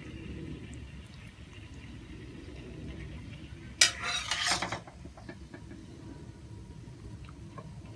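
Utensil scraping and clinking against a cooking pan as food is served out onto a plate. There is one louder scrape about four seconds in and a few light clinks after it, over a steady low hum.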